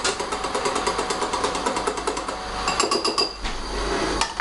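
A whisk beating batter in a bowl: fast, even clicks several times a second that stop about three quarters of the way through, followed by a single sharp knock near the end.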